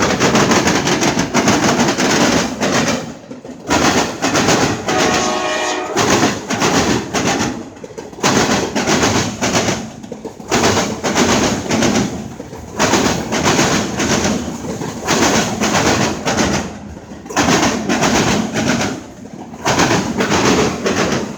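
Freight train passing close by, its cars rumbling past loudly in a rise and fall about every two seconds. A brief pitched tone sounds about five seconds in.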